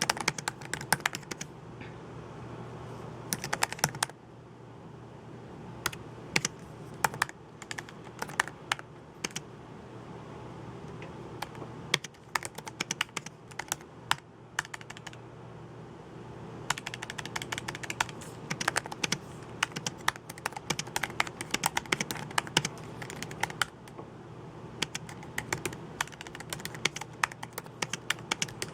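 Typing on a computer keyboard: bursts of rapid key clicks broken by short pauses, over a steady low hum.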